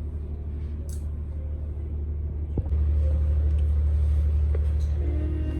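Low, steady vehicle rumble, with a single sharp click about two and a half seconds in, after which the rumble grows louder.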